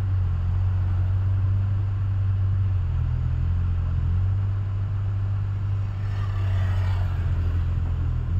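Tata truck's diesel engine running with a steady low drone, with a brief swell of rushing noise about six seconds in.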